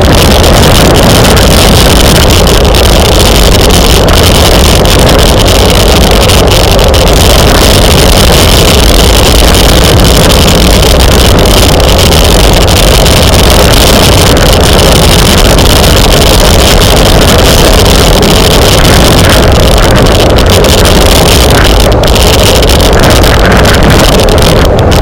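Loud, steady wind buffeting on a bike-mounted camera's microphone at racing speed, filling the sound with an unbroken rush near full level.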